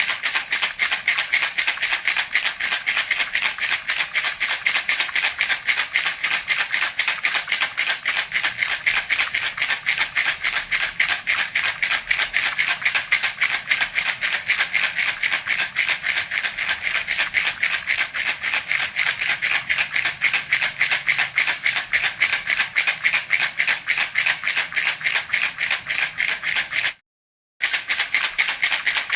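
Baby rattle (jhunjhuna) shaken rapidly and evenly, a dense run of bright rattling strokes; it breaks off for about half a second near the end and then goes on.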